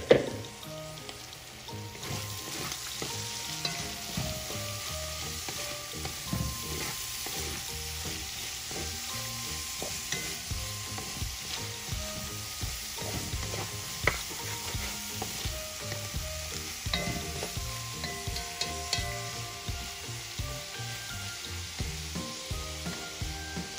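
Diced carrots, shrimp and celery sizzling in oil in a large aluminium pot, stirred and scraped with a wooden spatula. A few sharp taps of the spatula on the pot, the loudest right at the start.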